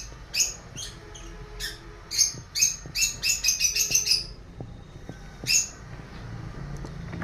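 Lovebirds chirping: short, high chirps every half second or so, with a quick run of them about three to four seconds in and a last one about five and a half seconds in.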